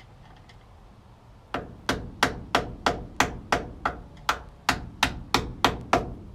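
Metal hammer striking the end of a screwdriver used as a punch, about fourteen sharp blows at roughly three a second, driving stuck parts of a shed door's hardware up and out.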